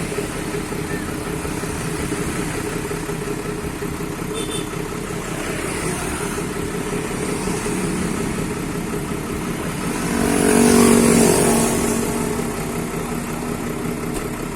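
Bus engine running steadily, rising louder for about two seconds near ten seconds in, then settling back.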